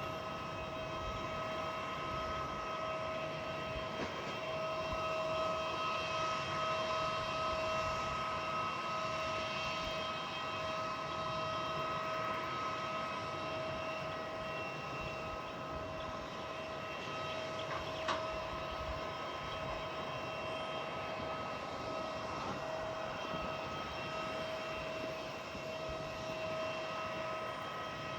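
Aircraft engines running steadily, a constant whine over a rushing hum, with a single short click about 18 seconds in.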